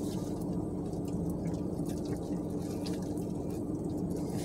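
People chewing fried chicken sandwiches: faint wet mouth clicks over a steady low hum in the car's cabin.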